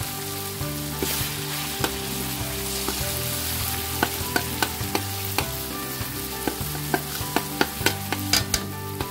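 Chicken and shrimp frying in sambal, sizzling steadily as they are stirred in the pan. From about four seconds in, a quick run of sharp clicks and knocks.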